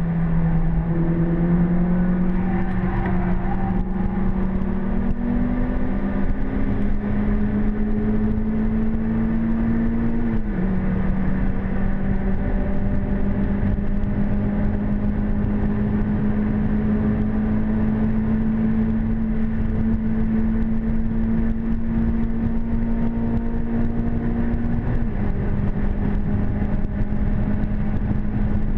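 Renault Clio 197's 2.0-litre four-cylinder engine under hard acceleration, heard from inside the cabin, with road and tyre noise underneath. Its pitch climbs slowly and drops sharply twice, about ten seconds in and near the end, as it shifts up a gear.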